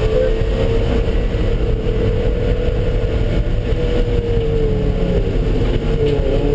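A vehicle engine running at steady high revs around a race track, its tone rising a little and then easing off, over a constant low rumble of road noise.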